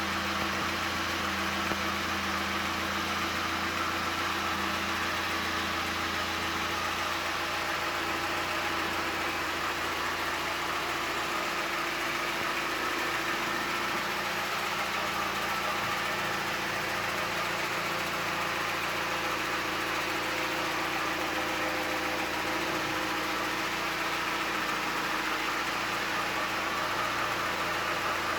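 ZMZ-406 inline-four petrol engine idling steadily and evenly, the sign of a well-tuned engine.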